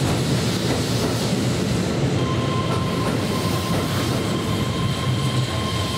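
Keihan electric train running along the platform: a loud, steady rumble of wheels on rail. A steady high tone joins about two seconds in.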